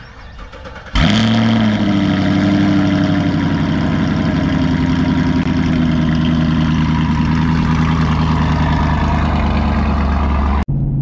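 Chevrolet Camaro SS's 6.2-litre V8, with Kooks 1 7/8-inch headers, high-flow cats and a Borla ATAK exhaust, starting up. It catches with a sudden loud burst about a second in, dips slightly in pitch, then settles into a steady, deep idle.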